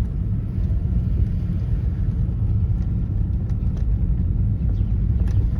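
Car driving along a street: the steady low rumble of its engine and tyres on the road.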